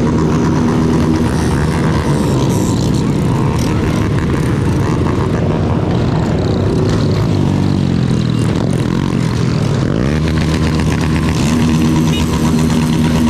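Yamaha Lander 250's single-cylinder engine running as the motorcycle rides, other motorcycles' engines mixed in. The pitch holds steady at first, rises and falls through the middle, sweeps up about ten seconds in, then holds steady again near the end.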